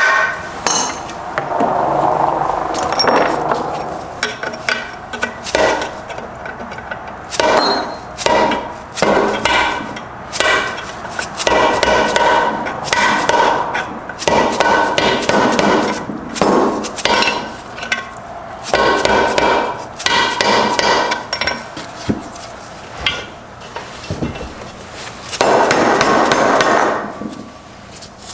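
Repeated hammer blows on a Subaru STI six-speed transmission as it is knocked apart, irregular strikes that leave a metallic ring. A couple of longer, rougher stretches of noise come near the start and near the end.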